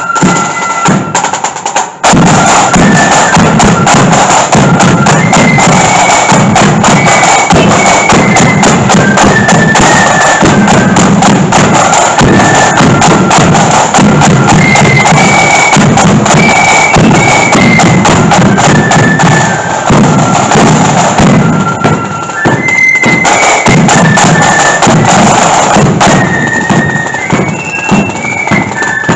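Marching flute band playing: a massed flute melody over snare drums and a bass drum. The sound drops briefly about two seconds in, then resumes at full volume.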